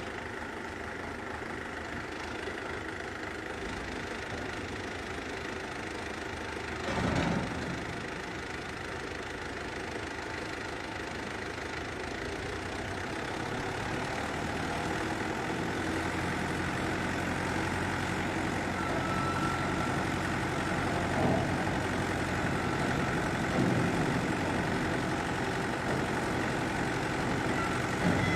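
Belarus 1025.2 tractor's diesel engine running steadily, getting louder partway through, with a short clunk about seven seconds in and a few lighter knocks near the end.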